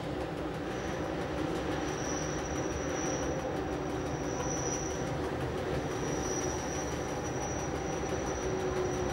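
Bernese Oberland Bahn metre-gauge electric train running through station points, with a steady rumble. A thin high squeal from the steel wheels on the curved track comes and goes about four times.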